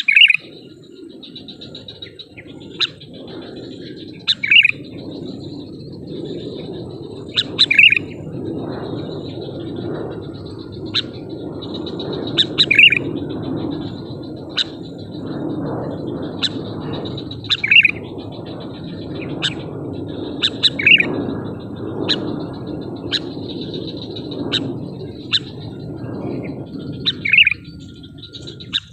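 Sooty-headed bulbul (kutilang) giving short, loud chirps every few seconds, with sharp clicks in between, over a steady high pulsing hum and a low rushing noise.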